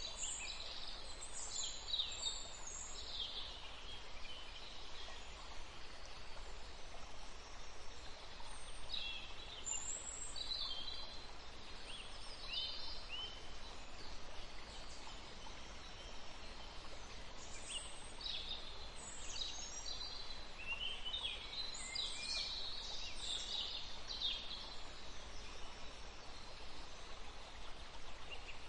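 Small birds chirping in scattered short runs of calls, over a steady background hiss.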